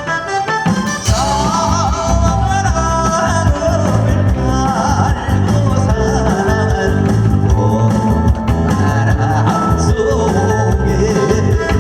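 A Korean trot song, with a singer's voice coming in about a second in over a backing track with a steady drum beat.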